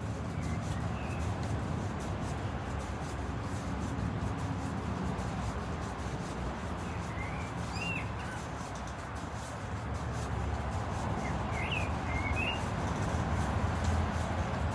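A few short bird chirps, about a second in, around eight seconds and around twelve seconds, over a steady background rush.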